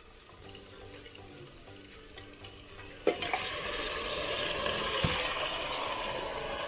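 Food going into hot oil in a cooking pot: a sudden knock about three seconds in, then a loud, steady sizzle of frying.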